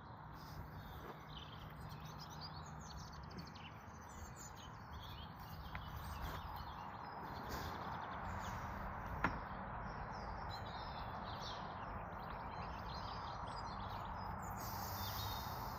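Songbirds singing, with many short chirps and trills scattered and overlapping, over steady background noise. A single sharp click comes about nine seconds in.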